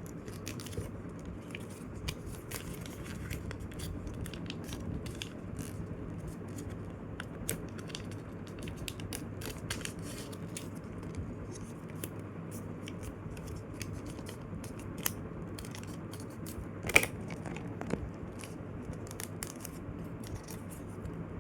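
A sheet of paper being folded and creased by hand: light rustling and crackling throughout, with a sharper crackle about 17 seconds in, over a steady low hum.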